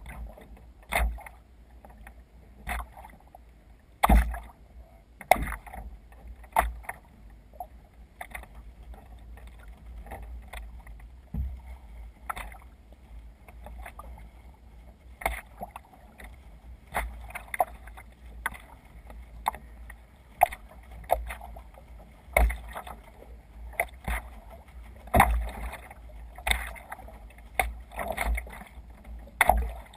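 Water splashing and slapping against a sea kayak's hull as it moves through small waves, in irregular splashes about every second or two.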